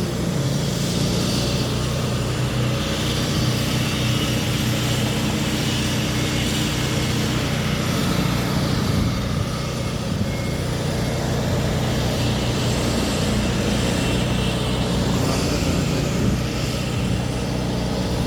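Steady motor-vehicle engine drone with a continuous hum of traffic or road noise.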